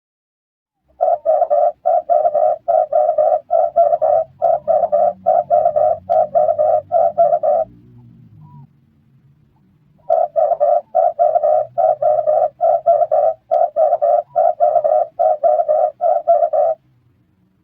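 Red turtle dove cooing: two long runs of rapid, evenly repeated coos, about three a second, each run lasting six to seven seconds with a pause of about two and a half seconds between.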